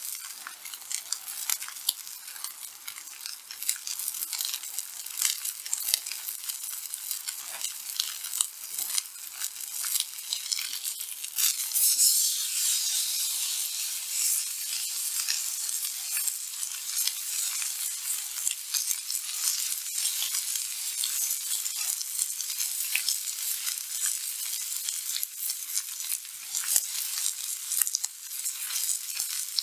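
Steak frying on a thick black iron griddle plate over a wood fire: a steady sizzle with many sharp crackles. The sizzle grows louder and fuller about twelve seconds in.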